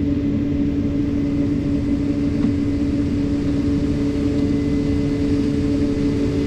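Combine harvester running steadily while harvesting corn, heard from inside the cab: a constant low drone with a steady hum over it.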